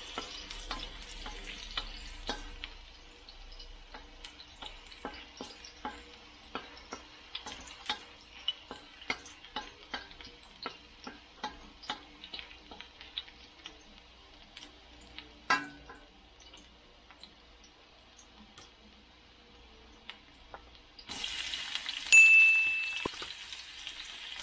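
Ginger strips frying in a little oil in a stainless steel wok, with faint hiss and many sharp pops and crackles. About three seconds before the end, chopped onion goes into the hot oil and the sizzle jumps suddenly louder, with a brief high squeak.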